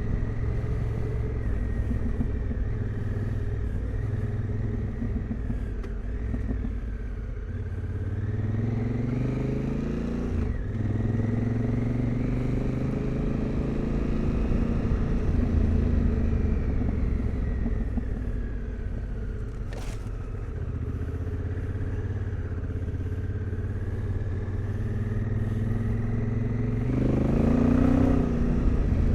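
Adventure motorcycle engine running while riding, its pitch rising and falling with throttle and gear changes, and revving up sharply near the end.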